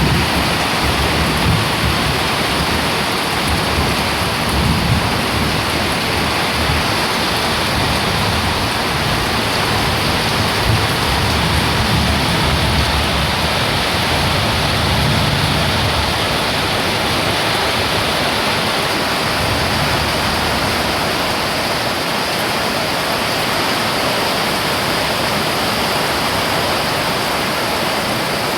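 Heavy rain falling steadily in a dense, even hiss, with low rumbling gusts of strong wind during roughly the first half.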